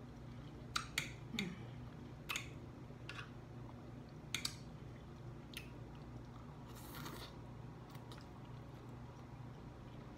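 A person chewing and biting a mouthful of green beans, with scattered short wet mouth clicks and smacks over a faint steady low hum.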